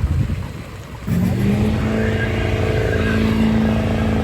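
Truck engine revving up suddenly about a second in, then held at high, steady revs during a burnout.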